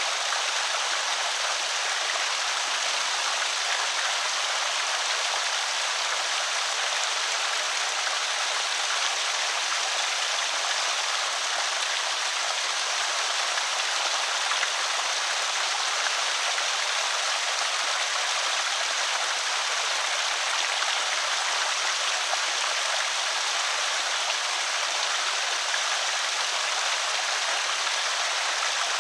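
Water pouring over a small creek spillway, a steady, even rush without pauses.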